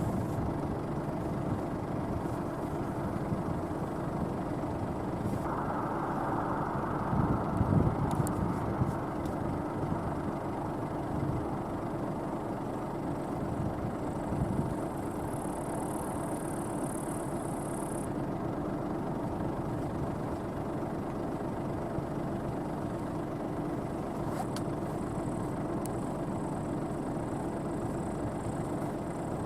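New Holland CX8.90 combine harvester running steadily under load, a constant machine hum and rumble. It briefly grows louder about seven seconds in.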